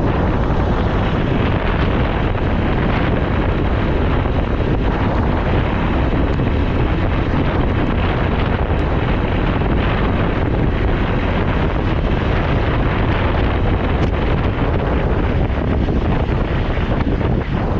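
Steady heavy wind rush buffeting the microphone of a moving motorcycle, with road and engine noise underneath.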